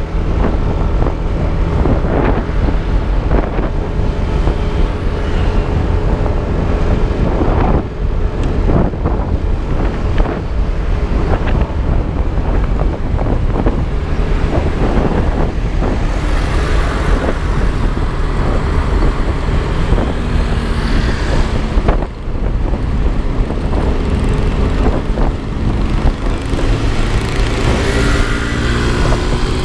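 Yamaha Aerox scooter riding along, its engine running under heavy wind buffeting on the helmet-mounted action-camera microphone, with road traffic around. An engine's pitch climbs near the end.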